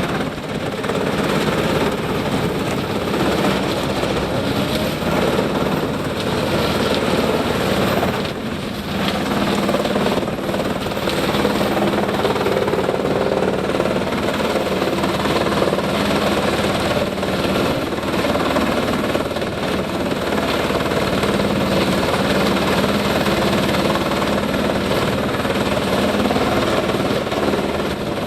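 Industrial wood chipper driven by a Scania diesel engine, running steadily and loudly, with a short dip in level about eight seconds in.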